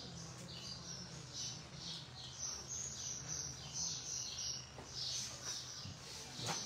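Small birds chirping over and over in short high notes, over a steady low hum. A sharp click near the end.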